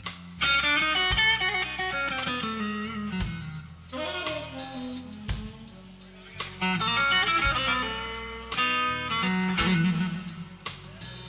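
Slow blues played live by a band, with an electric guitar solo playing runs of bent notes over bass and drums.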